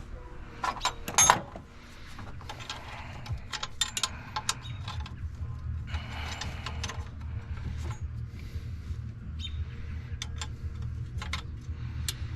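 Hand tools clicking and scraping against metal parts on a diesel engine during fuel injector return line removal, with a sharp clatter about a second in, over a steady low hum.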